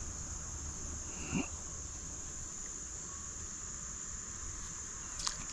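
Summer insect chorus: a steady, high-pitched drone that keeps on without a break.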